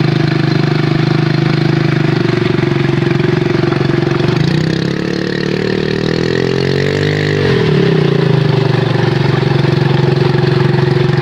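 Honda 2 hp four-stroke outboard motor running steadily at idle; about halfway through its speed changes, gliding up and then dropping back to a steady idle. It starts and runs well, sounding in good order.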